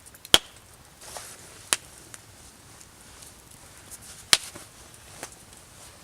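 Four irregular sharp chopping knocks, two of them loud, spread over several seconds.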